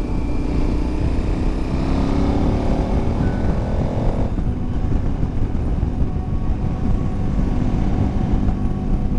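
KTM 1090 Adventure's V-twin engine accelerating in gear, its note rising steadily for about four seconds. The rising note then breaks off, as at a gear change, and the bike runs on under a heavy low rumble of wind and road noise.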